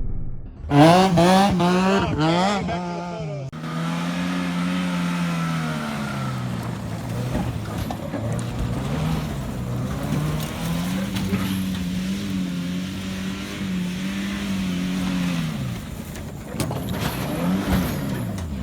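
Off-road race truck engine revving hard several times in quick succession, then running on with slow rises and falls in engine speed.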